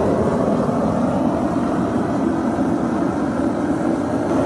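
Forge running with a steady rushing noise while a copper-nickel coin billet heats for forge welding.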